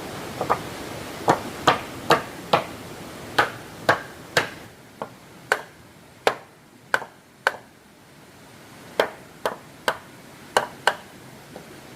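Hand tool striking wood in a run of about twenty sharp blows, roughly two a second, with a short pause after about seven seconds.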